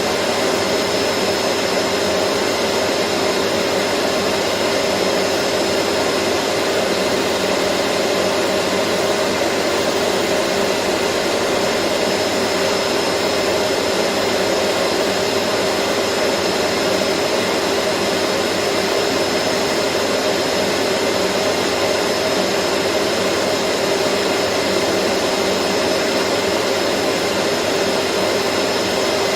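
Vacuum cleaner running at a constant speed: a steady, unchanging whooshing hiss with a hum under it and a thin high whine on top.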